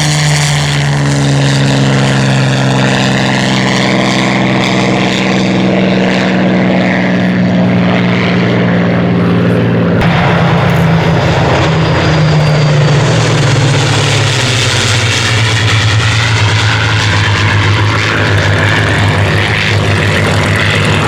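Rolls-Royce Merlin V12 piston engines of Second World War fighters flying past low and loud, the engine note falling in pitch as they go by. The sound breaks off abruptly about ten seconds in and is replaced by another pass, whose note drops again a few seconds later.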